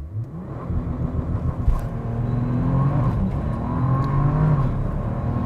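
Bentley Continental GT Speed's twin-turbo W12 engine accelerating hard from a launch-control start. The engine note climbs and drops back at upshifts, about three seconds in and again near the end.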